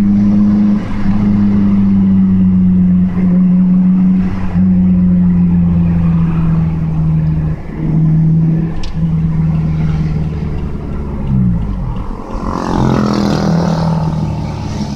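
Daihatsu Sirion's exhaust through a Tanabe aftermarket muffler, the engine held at a steady pitch with a few brief dips. About three-quarters of the way through, the note glides down, followed by a short spell of rougher, wider noise.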